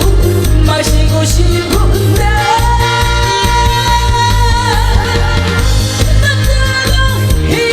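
A singer performing a song over loud instrumental accompaniment with a steady, pulsing bass beat, holding one long note through the middle that wavers as it ends.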